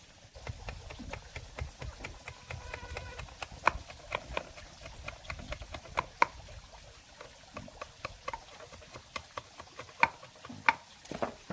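Irregular light clicks and knocks in quick succession, with a handful of sharper taps scattered through, over a low rumble.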